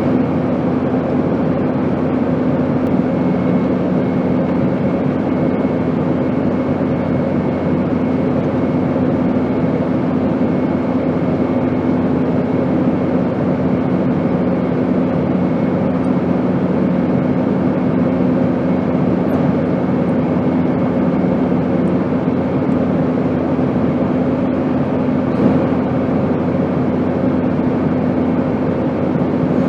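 Airplane noise: a steady, even rushing drone with a constant low hum. A second, slightly lower hum comes in a few seconds in and drops away about two-thirds of the way through.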